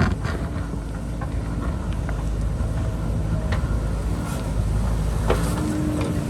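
JCB backhoe loader's diesel engine running under work, with scattered short knocks of the bucket against rock and soil. A steady whine joins about five seconds in.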